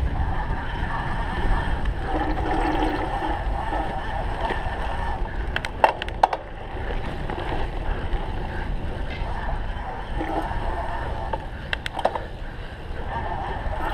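Cyclocross bike being raced over rough ground: steady wind and rolling rumble from the tyres and drivetrain, with a few sharp clicks or knocks about six seconds in and again near twelve seconds.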